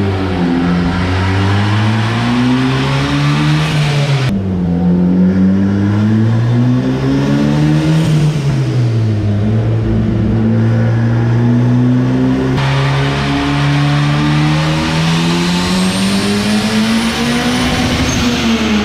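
Turbocharged Honda K20A3 four-cylinder in a K-swapped pickup, run on a chassis dyno. The revs climb and fall back several times. Then comes a long climb under boost, where a high whistle joins near the top before the revs drop.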